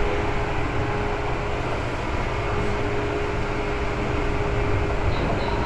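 Seibu 2000 series electric train running, heard from inside the car: a steady low rumble of wheels on the rails with a constant hum. A faint high tone comes in near the end.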